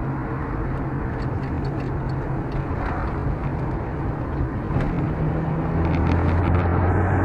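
Steady vehicle engine and road noise with a low hum that grows a little louder about six seconds in.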